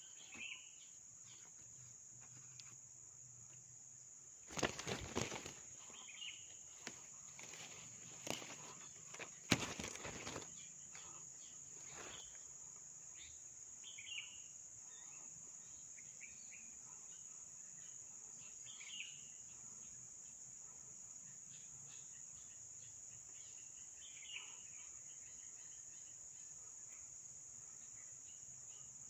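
Steady high-pitched drone of crickets or other insects. Between about four and twelve seconds in there is a run of rustling and knocking, like footsteps or handling in vegetation. Short faint chirps come every few seconds.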